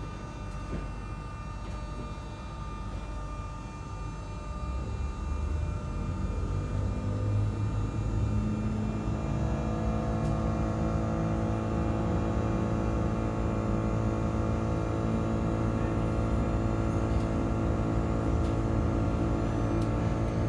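Engine of the MI79 machine running, building up over a few seconds, then holding steady with a drone and a whine of several steady tones. It is the noise the owner calls weird ('bizarre').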